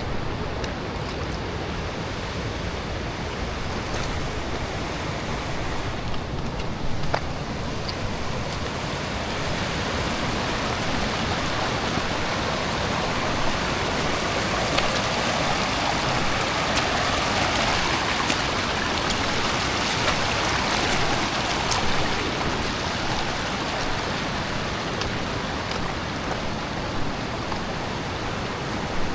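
Mountain river rushing over rocks, a steady noise that grows louder through the middle stretch and eases off again.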